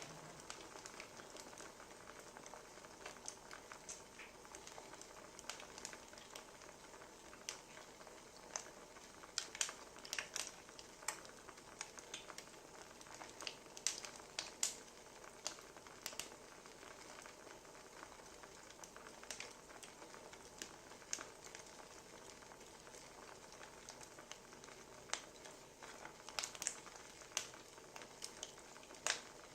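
Wood fire crackling: a soft steady hiss with irregular sharp pops and snaps, coming thicker between about ten and sixteen seconds in and again near the end.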